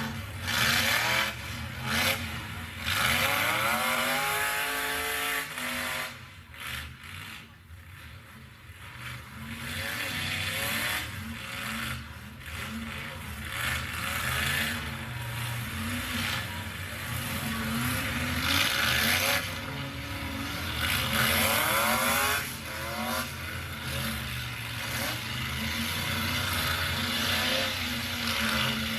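Demolition derby truck engines revving up and down again and again, with loud stretches of scraping, crunching noise from the trucks.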